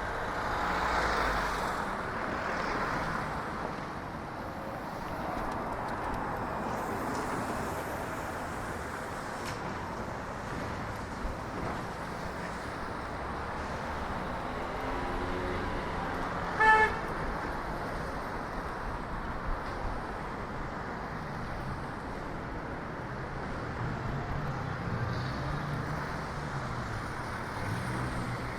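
Street traffic: cars passing with a steady road-noise hiss. A single short car-horn beep comes a little past halfway and is the loudest sound.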